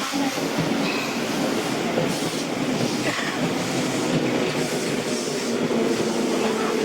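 Tobu Tojo Line electric commuter train running into the station: steady rail and wheel noise with a motor whine.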